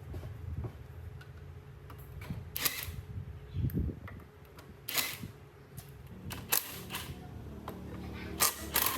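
Several sharp clicks and knocks a second or two apart, the loudest two near the end, over a low steady hum.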